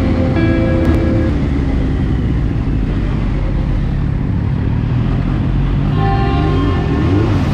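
Motorcycle riding noise: a steady engine rumble mixed with wind rush, with a few brief pitched tones over it near the start and again near the end.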